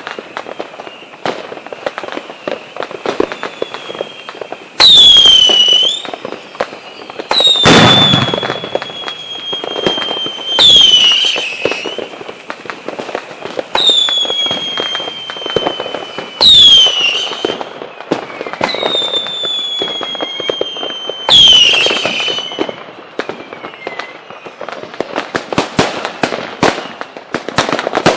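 Fireworks display: about seven whistling fireworks, roughly one every three seconds, each going off suddenly and loudly with a high whistle that slides slowly down in pitch over a couple of seconds. Steady crackling and popping runs underneath, and it thickens into a rapid crackle near the end.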